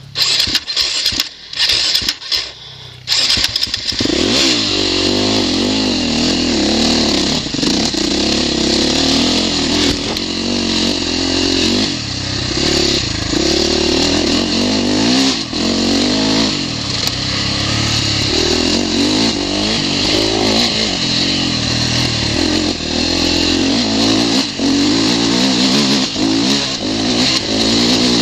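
KTM 450 four-stroke single-cylinder motocross engine: a few seconds of short knocks and bursts with gaps, then from about four seconds in it runs continuously, revving up and down as the bike is ridden along the dirt track.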